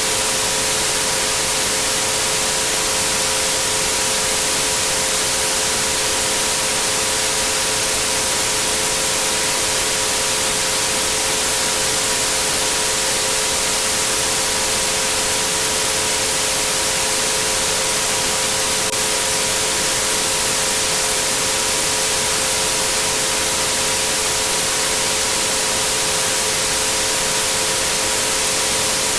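Synthetic white noise, a steady even hiss, with three pure steady tones at 432, 528 and 963 Hz held beneath it, unchanging.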